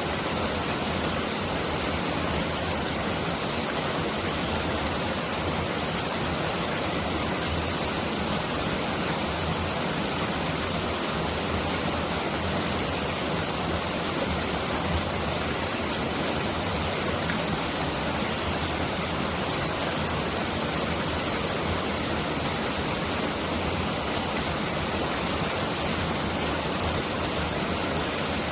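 Mountain valley stream rushing steadily, a dense, even rush of water that sounds like heavy rain pouring down.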